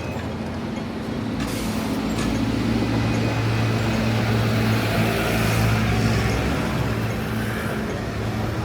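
A heavy road vehicle's engine running close by, its low hum growing louder through the middle and then easing, with hisses of air about a second and a half in and again around five seconds.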